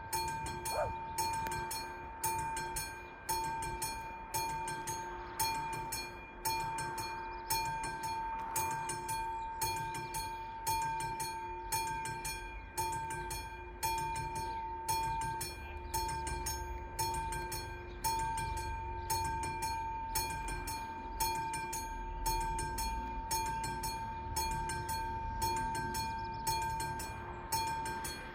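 Classic level-crossing warning bells striking in a steady, even rhythm, about one and a half strikes a second, each strike ringing out with a clear tone. A low rumble builds underneath in the second half.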